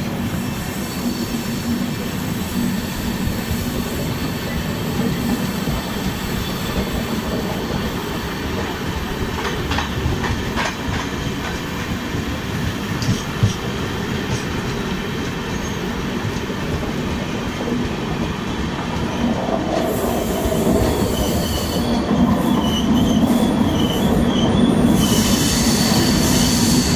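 Two passenger trains running side by side, heard from an open coach door: steady rumble and rattle of wheels on rail. Near the end the noise grows louder as both enter a tunnel, and a wavering high wheel squeal rises over it.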